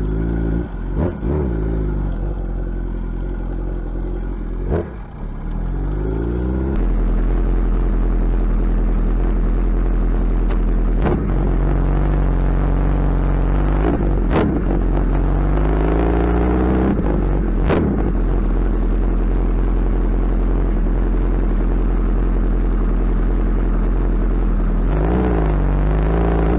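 Suzuki Hayabusa's inline-four engine with a loud exhaust under way, its pitch climbing and dropping again and again as it revs through the gears, over a deep rumble that gets louder about seven seconds in. There are three sharp cracks in the second half.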